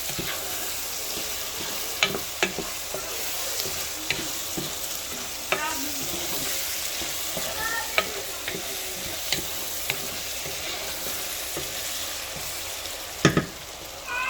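Food sizzling in a hot pan as it is stir-fried, with a spatula clicking and scraping against the pan every second or so and one louder knock near the end.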